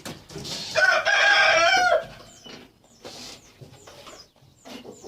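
A rooster crowing once, a single loud call of a bit over a second about a second in, with faint high chirps of small birds around it.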